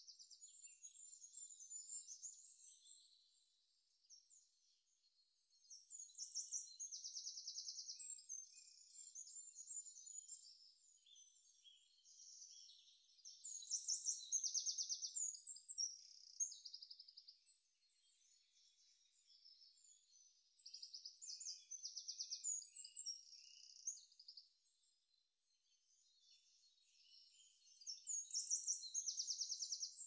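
Songbirds chirping, with rapid trills every few seconds; the sound is high and thin, with nothing low beneath it.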